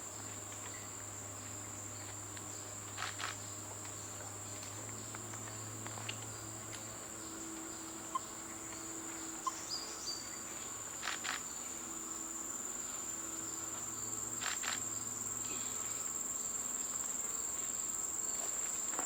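Steady, high-pitched chirring of insects, with a few short clicks scattered through it.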